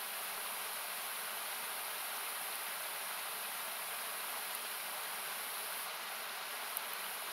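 Steady rushing hiss of a fast river or small waterfall, with its low end cut away by equalising. A couple of faint crackles from a wood campfire come near the end.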